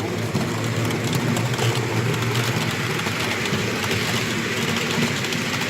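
Model train running on a layout: a steady whir with rail noise.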